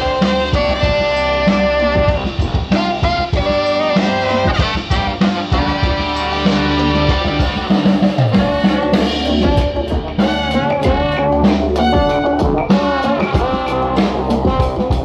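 Live brass band playing: trumpets and saxophone over a drum kit, with the drum hits coming through more strongly in the second half.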